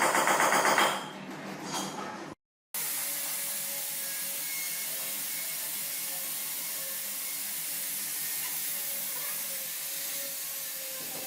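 A power tool running with a fast rattle for about a second, dying away over the next second. After a short break to silence, a steady hiss takes over.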